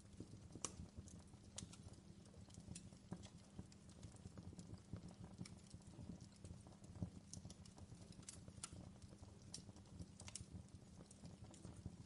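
Wood fire crackling faintly, with irregular sharp pops and snaps several times a second over a steady low rumble.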